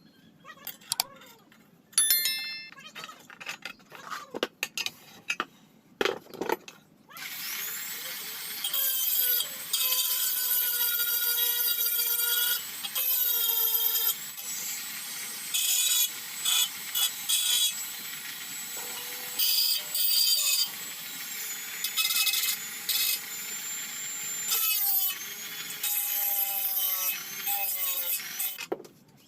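Metal workshop sounds: a few knocks and a short ringing clink of steel, then from about seven seconds a power tool working steel in long spells that stop and start again, its pitch sagging and recovering under load.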